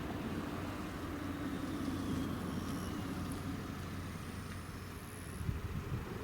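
The Izukyu 2100 series Royal Express train running slowly on the rails, a steady low rumble and hum with a few knocks near the end.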